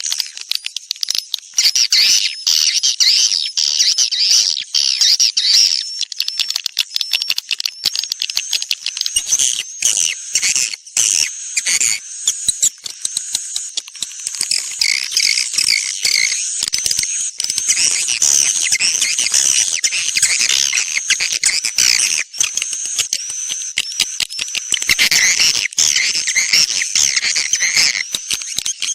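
Swiftlet lure call recording: dense, continuous high-pitched twittering and chirping of many edible-nest swiftlets, the kind of calling sound played to draw swiftlets into a nesting house.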